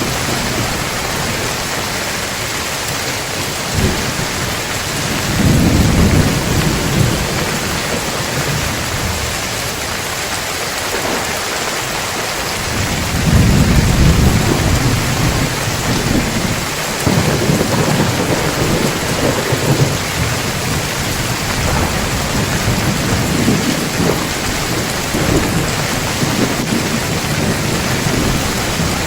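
Steady heavy rain with thunder rumbling in long low swells, strongest about five seconds in and again from about halfway through.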